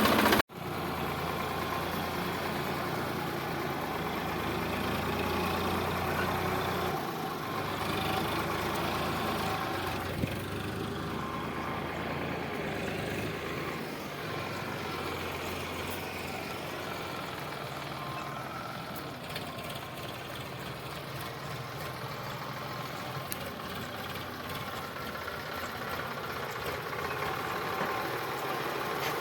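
Sonalika DI 745 tractor's diesel engine running steadily, with a brief break in the sound about half a second in and a single click about ten seconds in.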